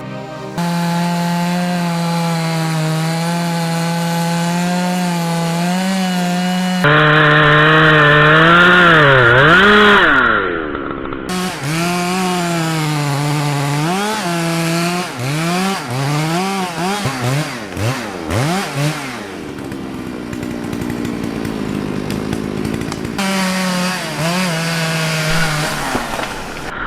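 Two-stroke chainsaw running at high revs and cutting wood. Its engine note drops and recovers again and again as the chain loads up in the cut, then holds steady.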